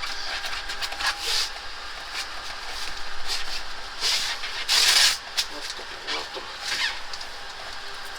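Rustling and scraping of hands handling air-conditioner piping and its covering during installation, in a few short hissy bursts, the loudest about five seconds in.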